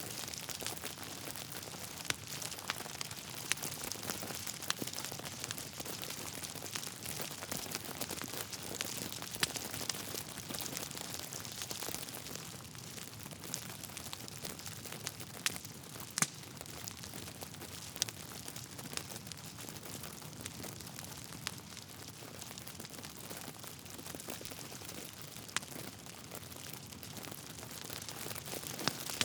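Wood fire burning in a fireplace: a steady hiss of flames with irregular crackling and scattered sharp pops of the logs, the loudest pop about halfway through.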